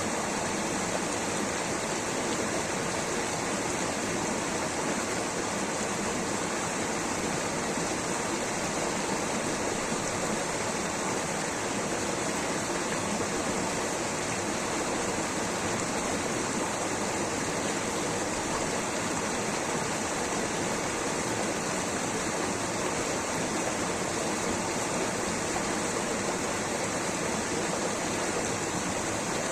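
Waterfall water rushing steadily, an even, unbroken hiss with no changes.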